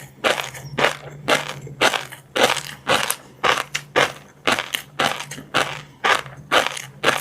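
Close-miked mouth chewing of crunchy seafood and fish roe, crisp crunches repeating about twice a second in a steady chewing rhythm.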